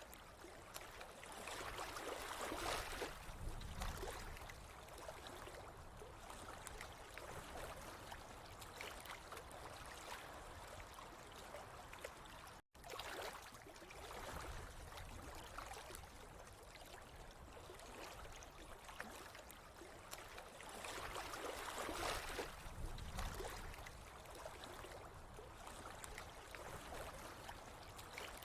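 Water trickling and gurgling steadily, swelling a little twice. The sound drops out for an instant about halfway.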